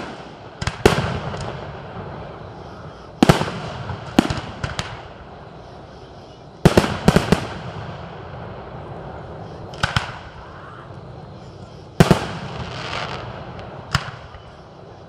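Fireworks show: about a dozen sharp bangs of aerial shells bursting, some coming in quick clusters of two to four, several trailing off in an echo, over a background murmur of a crowd.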